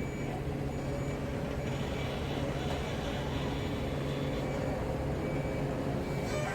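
Heavy truck's diesel engine running steadily, with a few short high beeps near the start and end.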